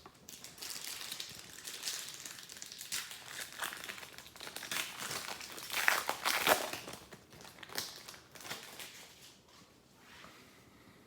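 Foil wrapper of a trading card pack crinkling as it is handled and opened, loudest about six seconds in and dying away near the end.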